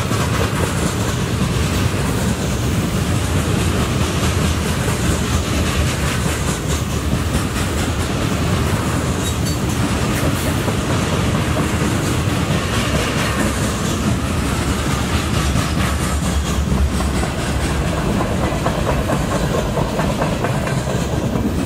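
Freight train's covered hopper cars rolling past at speed: a steady rumble of steel wheels on rail with a running clickety-clack of wheel clicks.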